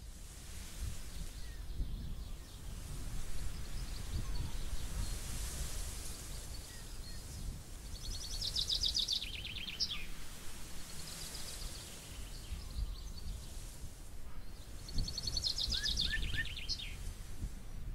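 Outdoor ambience: a steady low rumble of background noise with birdsong. A songbird sings a fast trill twice, about halfway through and again near the end, each phrase dropping in pitch and ending in a quick downward sweep, with fainter chirps between.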